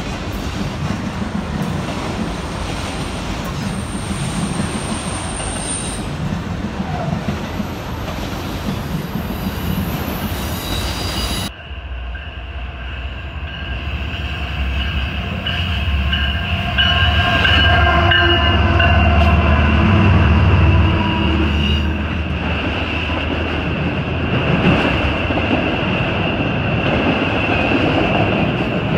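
Freight train of autorack cars rolling past with steady wheel and car rumble. About 11 seconds in the sound changes abruptly: a diesel locomotive approaches and passes with a strong low engine rumble, and the autorack cars that follow hold a steady high-pitched wheel squeal on the curve.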